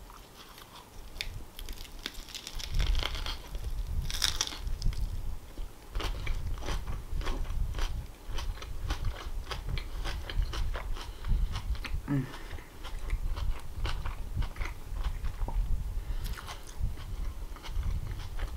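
Close-miked biting into and chewing a crisp lettuce-leaf wrap, with crunching and wet mouth clicks and crackles throughout. The loudest crunches come about three to four seconds in.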